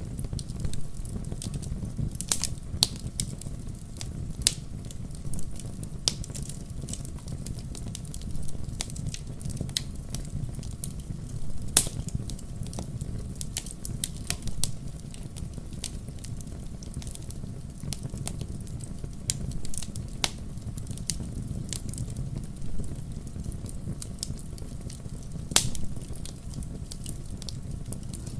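Wood fire burning in a fireplace: a steady low rumble of flames with sharp, irregular crackles and pops, a few louder snaps among them.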